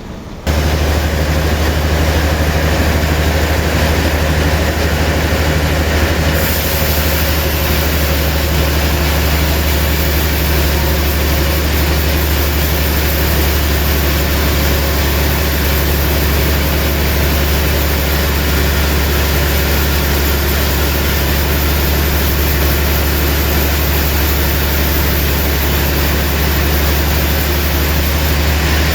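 Sawmill machinery running steadily, a deep constant hum under a broad mechanical noise. It starts abruptly about half a second in and stays even, with a slight brightening in the treble about six seconds in.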